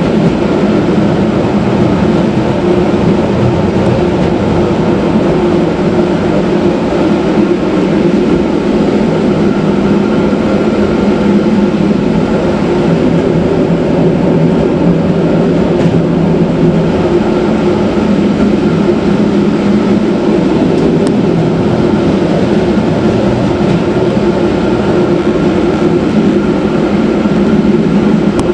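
Matterhorn Gotthard Bahn electric rack train running steadily downhill on a cogwheel rack section. A loud, even hum with a few held tones from the drive and rack gear sits over the rolling noise of wheels on rail.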